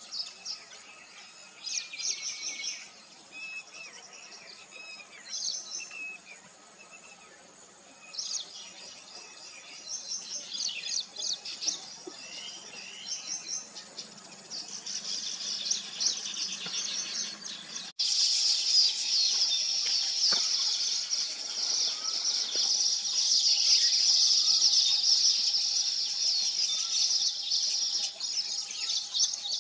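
A colony of weaver birds chattering, with many quick, buzzy chirps overlapping. About two-thirds of the way through, the sound cuts abruptly to a denser, louder chorus of chatter.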